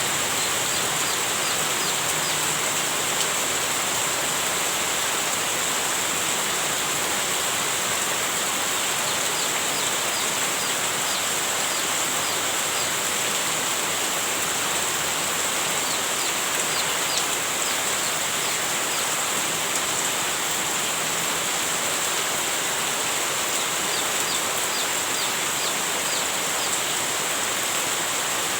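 Heavy rain falling in a steady, even hiss. Short high chirps come in a few brief runs over it.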